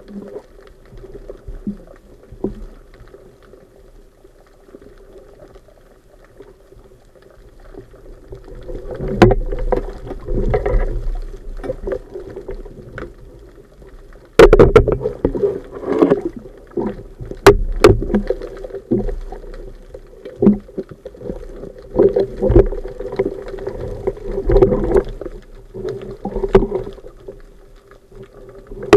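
Muffled underwater sound of water rushing and bubbling around the camera, with scattered sharp knocks and clicks. It swells about nine seconds in and grows louder again from about fourteen seconds.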